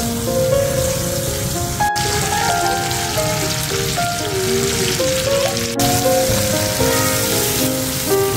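Hot oil sizzling in a wok as a ground garlic-and-pepper paste fries and sliced leeks are stirred in with a spatula, under background music with a stepping melody. The sound breaks off for an instant twice.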